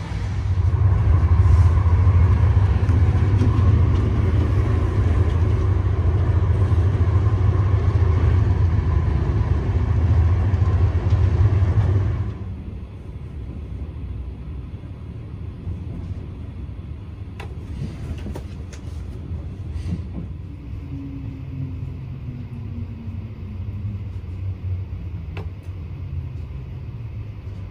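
Steady, loud low rumble of an Intercity train coach running at speed, heard from inside the coach. About twelve seconds in, it cuts to a much quieter train interior with a few faint clicks and a faint tone falling in pitch.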